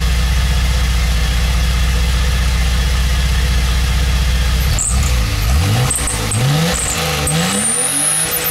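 BMW 520's straight-six engine idling steadily, then revved several times from about five seconds in, its pitch rising and falling with each blip of the throttle.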